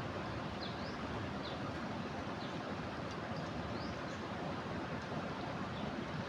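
Steady rush of a swollen river in flood, with a few short, high bird chirps over it.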